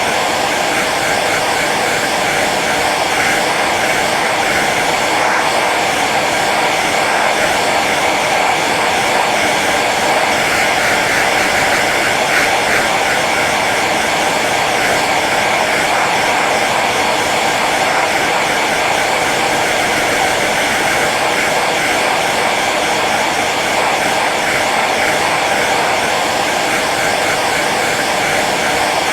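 Hair dryer running steadily on its low setting: an even rush of blown air over the hum of its motor.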